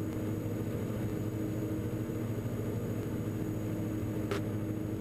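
Steady drone of a Diamond DA42 NG's twin Austro turbo-diesel engines and propellers heard from the cockpit in a climb. A short click sounds a little over four seconds in.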